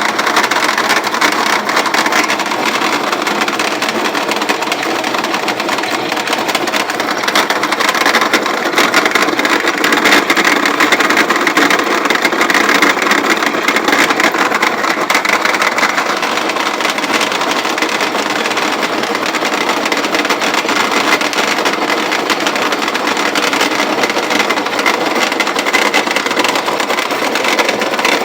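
Antique grain roller mill running steadily as grain is crushed between its rollers, a continuous dense mechanical grinding noise.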